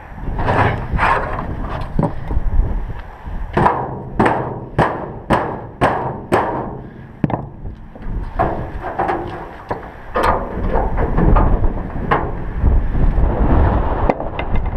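Sharp knocks and thumps from handling scrap gas pumps: a run of six evenly spaced knocks about half a second apart a few seconds in, with scattered ones before and after. Low wind rumble on the microphone runs underneath.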